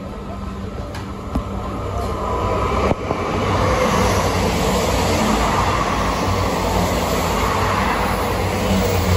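South Western Railway train moving past along the far track: a steady rumble of wheels and traction that swells to full strength about three seconds in, after a single sharp knock.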